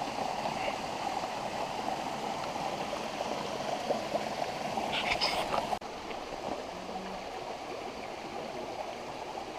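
Mountain creek water rushing steadily over rocks, with a brief higher sound about five seconds in.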